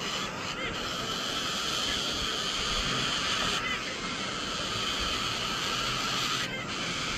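Many birds calling at once in a dense, steady chatter of overlapping chirps.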